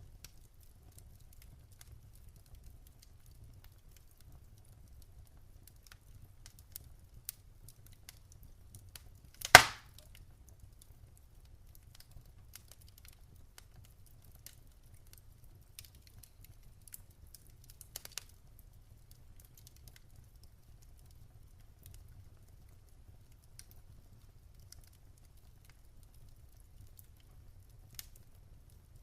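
Wood fire crackling in a fireplace: scattered small ticks and snaps over a steady low rumble, with one loud sharp pop about a third of the way in and a few smaller snaps a little past halfway.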